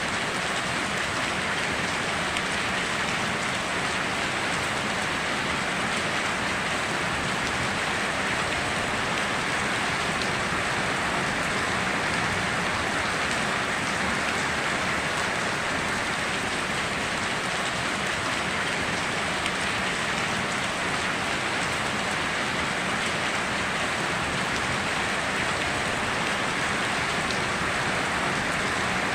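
Steady heavy rain falling, an even hiss of drops with no thunder or breaks.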